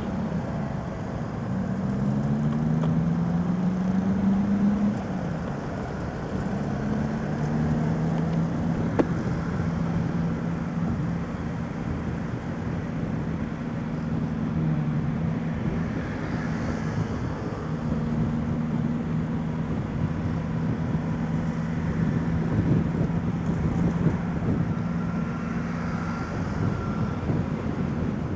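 Motorcycle engine running under way, its pitch rising twice in the first few seconds as it accelerates, then holding steady at cruising speed over road noise. A single sharp tick about nine seconds in.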